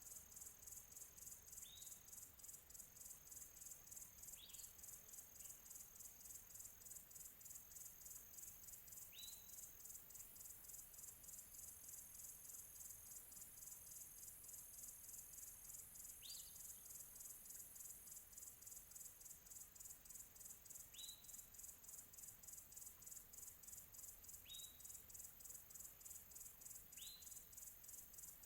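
Faint, steady, fast-pulsing high-pitched insect chirring, with a single short rising bird chirp every few seconds, seven in all.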